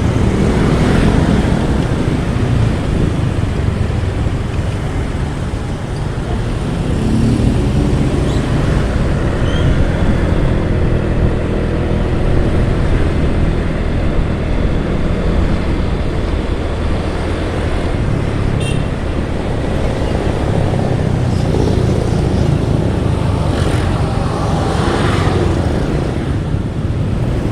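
Motorcycle being ridden through traffic: steady engine and road noise.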